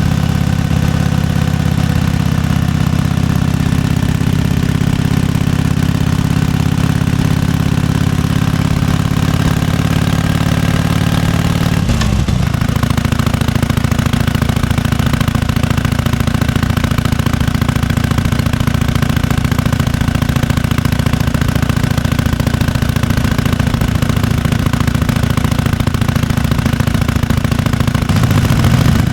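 1998 Harley-Davidson FLSTF Fat Boy's 1340 cc Evolution V-twin idling with its potato-potato lope. About twelve seconds in the note dips briefly and shifts, then it settles back into a steady idle.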